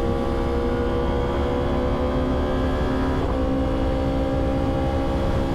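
Yamaha R1 inline-four sport bike engine pulling under light acceleration, its note climbing slowly. About three seconds in, the revs drop sharply at an upshift, then climb again. Heavy wind noise runs underneath.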